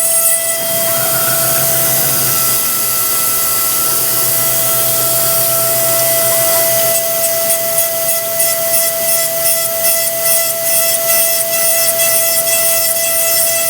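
Versamill 5X200 five-axis dental milling machine wet-grinding an e.max lithium disilicate block: a steady high spindle whine over the hiss of coolant spray. From about halfway through, the hiss pulses rapidly as the tool works the block.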